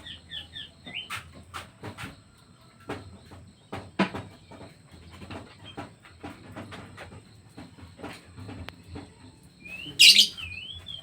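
Pet birds chirping, with a quick run of short chirps at the start and a louder burst of warbling song near the end. Frequent sharp clicks and light knocks sound between the calls.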